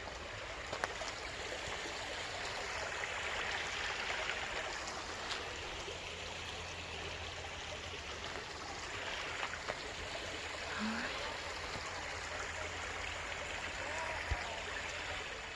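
Water flowing steadily in a small creek, an even, unbroken rush of running water.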